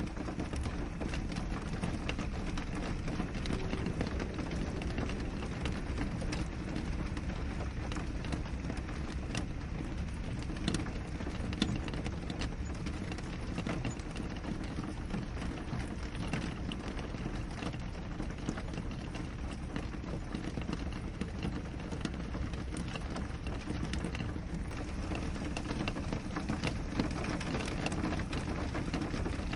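Steady rain falling on a window, many single drop hits standing out over an even hiss, with a low steady rumble underneath.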